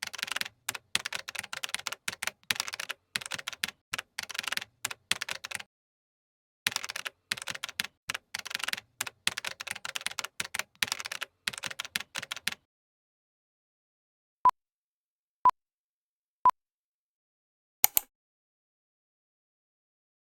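Typing on a computer keyboard in quick runs of key clicks for about twelve seconds, with a short pause about six seconds in. Then three short, even beeps a second apart, followed by one brief, sharper tone.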